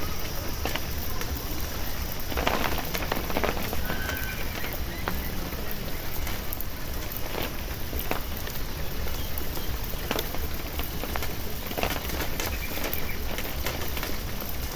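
Irrigation water spraying down onto a bed of spring onions: a steady patter like rain on leaves and soil, with scattered small splashes and ticks.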